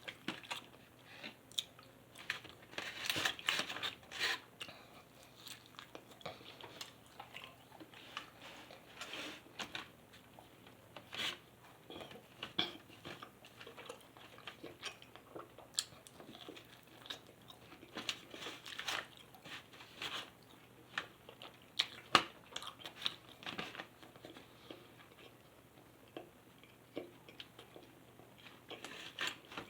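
A person chewing and biting food close to the microphone: irregular wet mouth clicks and smacks with some crunching, one sharper click about 22 seconds in.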